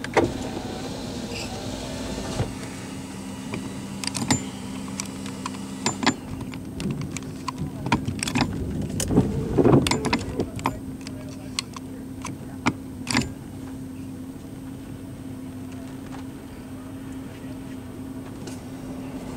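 Steady low hum of a parked vehicle running, with scattered clicks and knocks, most of them around the middle.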